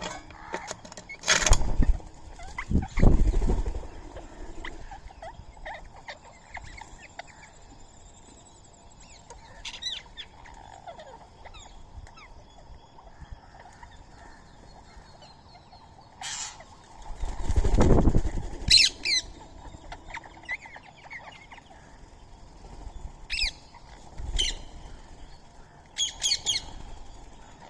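Indian ringneck parakeets flapping their wings in a few loud flutters, about a second in, around three seconds in and again in the middle, with short shrill calls scattered between.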